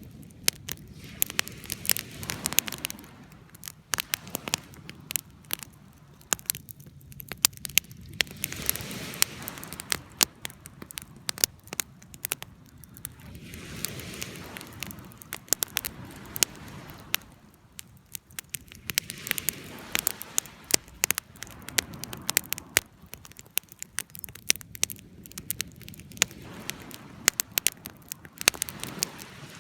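Wood campfire burning, crackling with frequent sharp pops, over a low rushing sound that swells and fades every few seconds.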